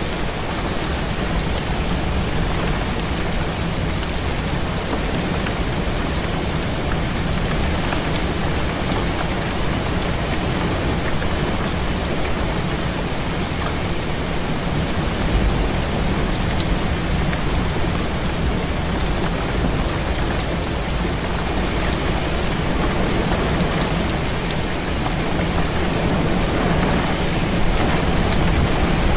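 Heavy rain falling steadily on a window, with a constant low rumble beneath it. The sound swells slightly about halfway through and again near the end.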